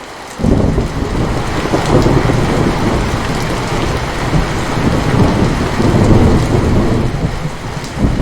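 Steady rain, with a long rolling rumble of thunder that breaks in suddenly about half a second in and keeps surging, easing briefly near the end before swelling again.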